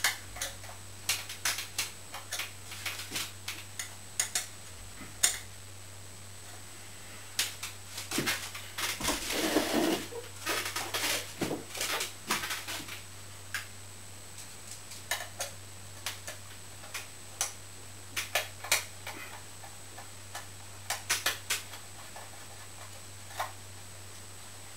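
Scattered small clicks, taps and knocks of hard objects being handled, with a denser rustling stretch about nine seconds in, over a faint steady low hum.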